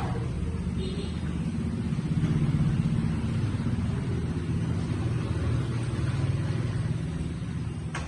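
Restored 1979 Honda motorcycle engine running with a steady low exhaust note that swells briefly about two seconds in.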